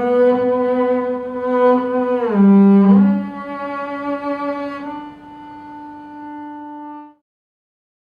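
Double bass bowed high on the instrument, playing a slow phrase of a few long sustained notes; the last note is held, thins out and fades away about seven seconds in.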